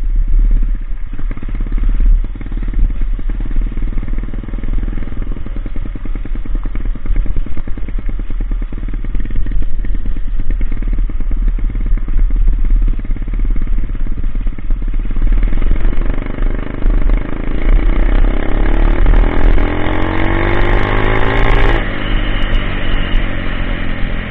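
Coolster Speedmax 125 pit bike engine running at low revs, then revving up in one long rising climb from about fifteen seconds in, dropping off sharply near the end.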